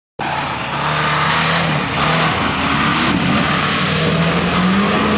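Suzuki off-road 4x4's engine running under load, a steady drone that rises a little in pitch near the end, over loud rushing noise. The sound cuts in abruptly just after the start.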